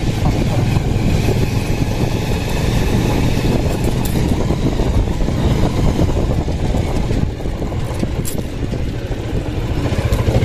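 Motorcycle under way, its engine running with a steady low rumble that eases slightly about seven seconds in.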